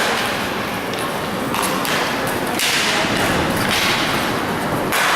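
Inline hockey play: skate wheels rolling across the rink floor in several broad swishes, with thuds of sticks and the puck.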